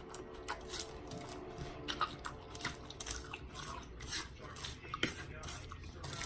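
Close-up chewing with crisp crunches and wet lip smacks, many short irregular clicks: a person eating crunchy food.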